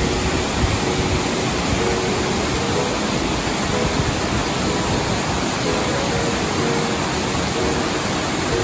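Waterfall rushing in a steady, even roar of falling water, with soft music notes faintly audible underneath.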